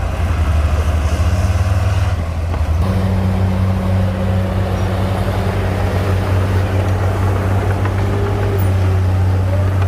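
Heavy diesel engine of earthmoving machinery running steadily with a deep, even hum. About three seconds in the engine note shifts, with the lowest rumble easing and a steadier tone above it, as the load or throttle changes.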